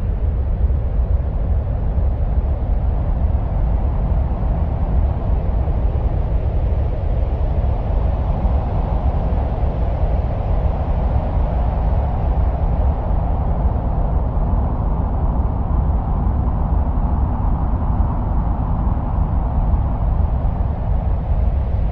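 Steady wind-like rumbling noise, presented as the sound of the winds on Mars, with a deep low rumble under a hiss that swells over the middle and eases off again.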